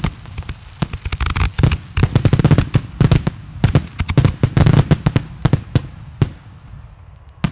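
Fireworks finale: a rapid barrage of aerial shell bursts, the bangs coming thick and overlapping, then thinning to a few single reports near the end.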